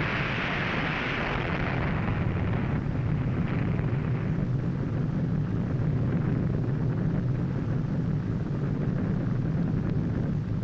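Low, steady rumble of a huge explosion, with a hissing upper layer that dies away over the first few seconds.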